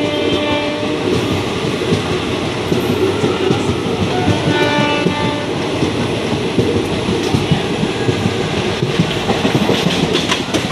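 Express passenger train running at speed, heard from an open coach doorway: steady wheel-and-rail rumble with rapid clatter over the rail joints. A train horn sounds into the first second, and a fainter horn comes again around four to five seconds in.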